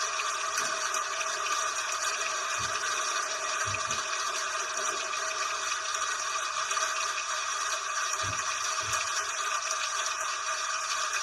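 Steady hiss of falling rain, with a few brief, faint low thumps about a third of the way in and again near the end.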